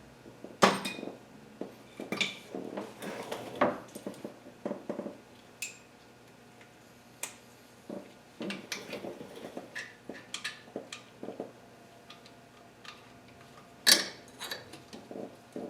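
Metal hand tools and parts clinking and clanking irregularly while working on an oil pan's bolts, the loudest clank about 14 seconds in.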